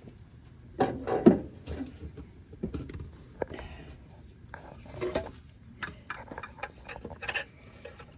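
Irregular metallic clinks, knocks and scraping of hand tools working on metal parts, loudest about a second in.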